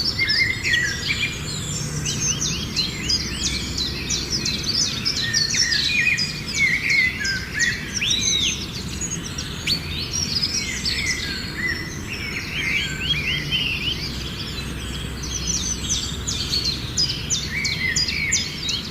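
A chorus of several songbirds chirping and singing at once: quick, overlapping high chirps and trills, over a steady low hum.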